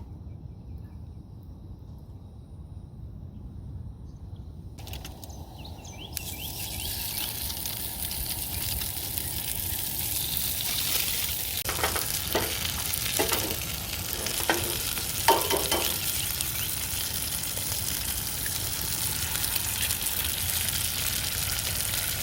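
Food sizzling in a frying pan, starting about five seconds in and growing louder, with a few clinks and scrapes of a utensil around the middle.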